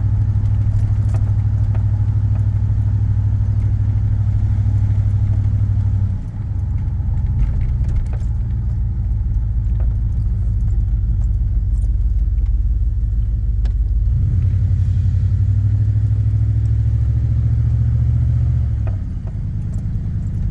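Truck engine under way, a steady low drone that dips and changes pitch three times, about 6 s, 14 s and 19 s in. The truck is struggling to move, which the driver takes for a failing intake plenum.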